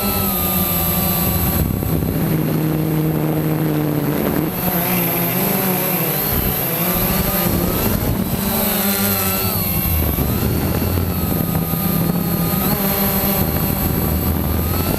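Quanum Nova quadcopter's electric motors and propellers buzzing in flight, their pitch rising and falling as the throttle changes.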